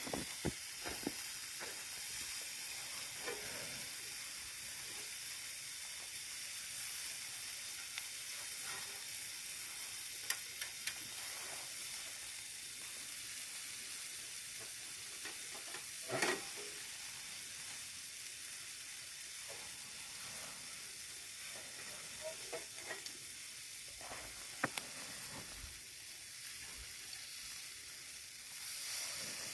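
Meat sizzling steadily in a hot pan, typical of köfte meatballs and sucuk sausage frying, with a few short clicks and knocks scattered through.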